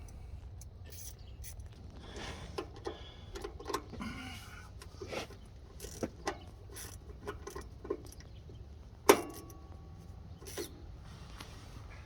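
Scattered metal clicks and taps of hand tools and parts being handled, with one sharp metallic clink about nine seconds in that rings briefly.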